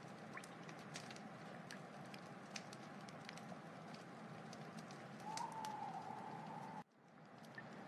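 Wood fire crackling, with scattered sharp pops over a steady low hiss. About five seconds in, a higher hissing rises for a second and a half. Then the sound cuts out abruptly and fades back in.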